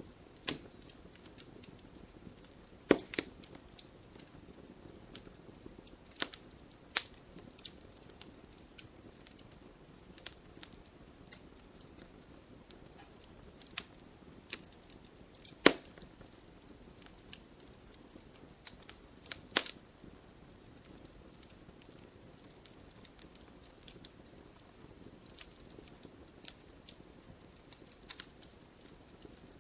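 Fire in a fireplace crackling: irregular sharp pops and snaps over a soft steady hiss, with a few much louder pops scattered through.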